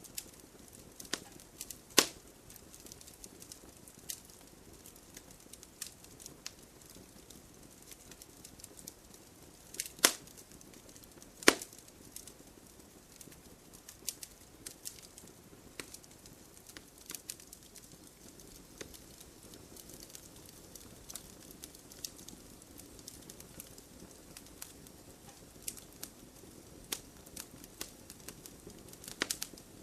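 Wood campfire crackling: irregular sharp pops and snaps of burning wood over a faint steady hiss of flame, with a few louder snaps about two, ten and eleven and a half seconds in.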